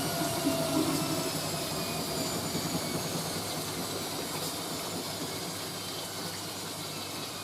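Hoover A3060 Electronic 1100 washing machine winding down after a short spin, its motor whine slowly falling in pitch and fading, over a steady hiss.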